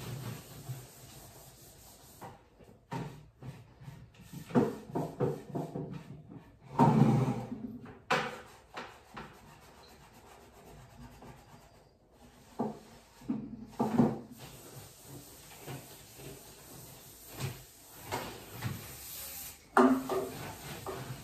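Household tidying and cleaning sounds: scattered knocks, rubbing and light clatter as things are handled, wiped and put away, with short quiet gaps between.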